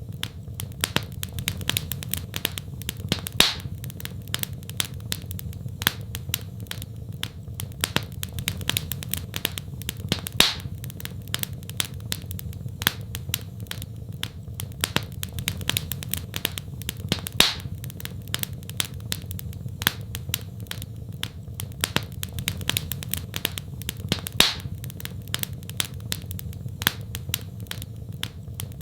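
Wood fire crackling: a dense run of small snaps and pops over a steady low rumble, with a louder pop about every seven seconds, four times in all.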